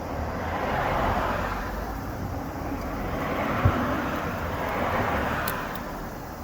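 Road traffic going past: three cars' tyre and engine noise swelling and fading one after another, with a single short knock about three and a half seconds in.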